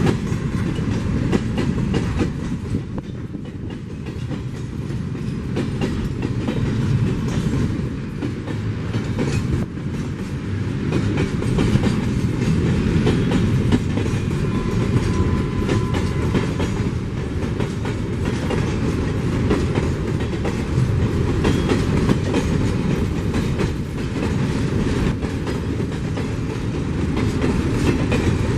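Freight train cars, including empty mineral hoppers, rolling past, their wheels clattering steadily over the rail joints.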